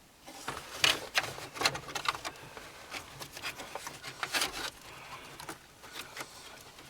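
Irregular plastic clicks and rustling: dashboard switches and their wiring plugs being handled and pushed into place in the van's dash.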